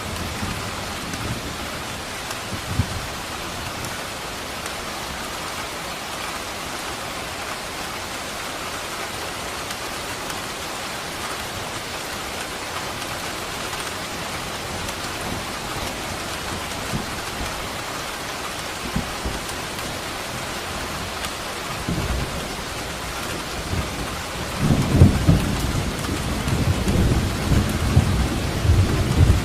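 Steady rain, with thunder rumbling low in the background; the rumble swells about three-quarters of the way through and is loudest near the end.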